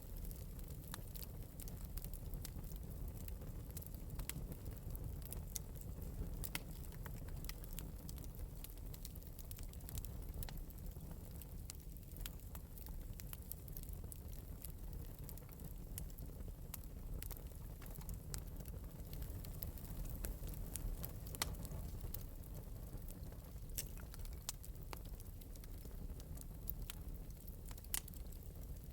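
Wood fire burning in an open metal fireplace, crackling steadily with frequent small sharp pops over a low rumble of the flames.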